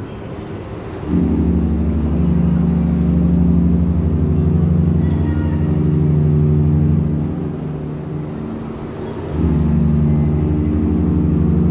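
A cruise ship's horn sounding deep, steady blasts on departure. It comes in about a second in, dies down for a moment about eight seconds in, then sounds again.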